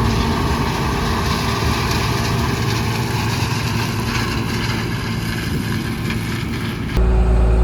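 John Deere 6600 combine running in the corn, a steady engine hum with machinery noise. About seven seconds in the sound changes abruptly to a louder, deeper steady engine hum.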